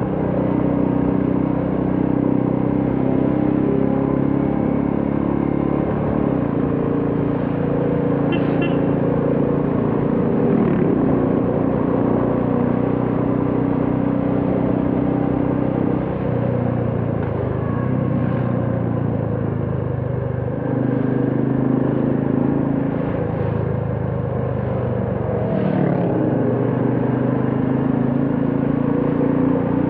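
Royal Enfield Classic 350's single-cylinder engine running under way while riding, its note easing off and picking up again several times as the throttle and gears change.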